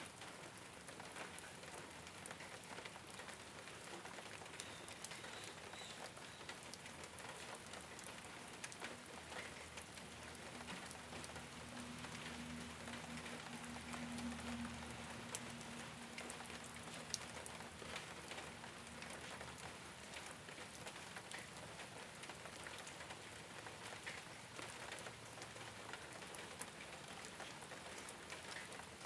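Rain falling on a rooftop: a steady patter with many sharp individual drop ticks. A faint low hum sits under it for several seconds in the middle.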